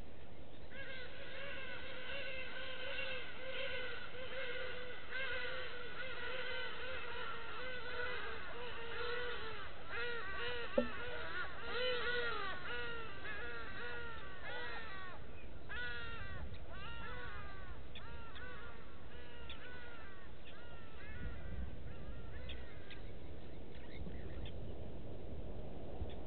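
Birds calling: a dense run of rapid, repeated harsh calls for the first half, thinning to scattered calls later, with one sharp click a little before the middle.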